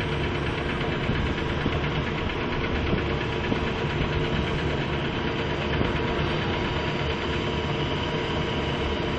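Heavy diesel engine running steadily, a constant low rumble with a faint steady hum above it.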